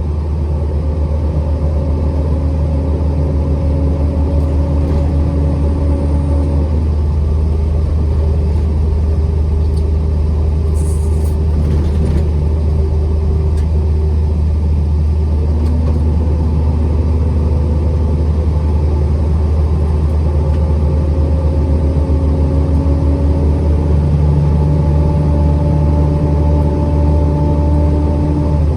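Motor vehicle driving along: a steady low rumble of engine and road, with an engine note that climbs slowly and then drops suddenly about seven seconds in and again near the end.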